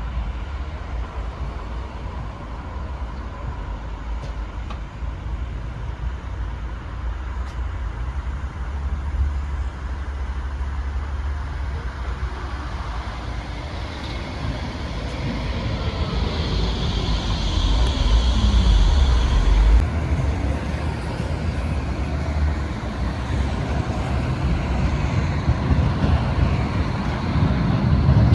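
A tram arriving: steady rumble of wheels on rails, with the motor whine falling in pitch as it slows, and a high-pitched wheel or brake squeal about two-thirds of the way in that stops abruptly.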